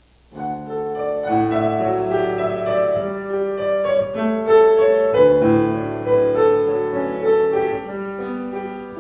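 Piano playing the introduction to a hymn-like song, sustained chords and melody notes starting a moment in.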